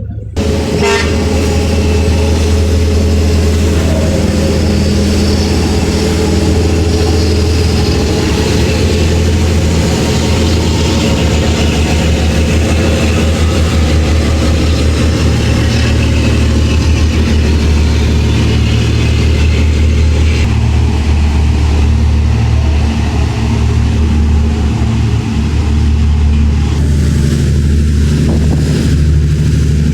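A loud, steady engine rumble with a low hum, starting abruptly just after the start.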